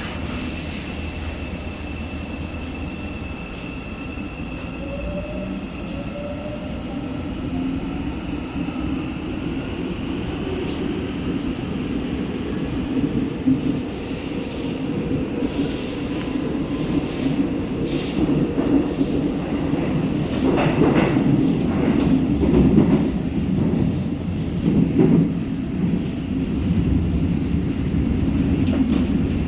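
Seoul Line 4 subway train running between stations. A faint electric-motor whine and a short rising tone come early as it picks up speed, under a steady rumble of wheels on rail that grows slowly louder. From about halfway through, high metallic wheel squeal joins in and is strongest in the last third.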